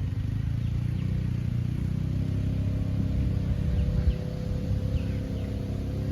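An engine running steadily with a low rumble, with a few faint bird chirps over it.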